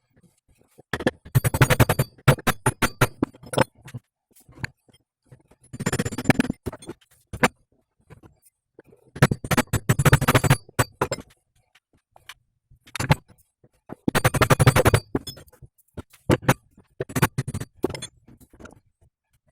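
Bursts of rapid metallic knocking and clanking, six or so runs of a second or more, from tools working on the steel U-joint of the driveshaft.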